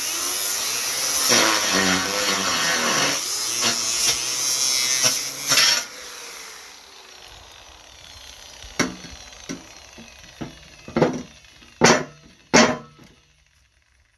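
Power saw with a nearly worn-out blade cutting through thick steel, then its motor spinning down with a falling whine about six seconds in. After that come several sharp metal clanks and knocks.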